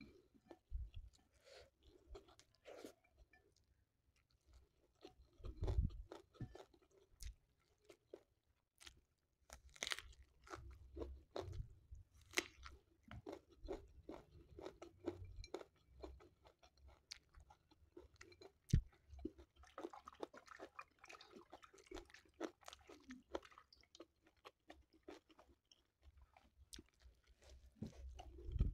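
Quiet, close-up chewing and crunching of crispy fried salted fish scraps and rice eaten by hand, in many short, irregular crunches and mouth clicks.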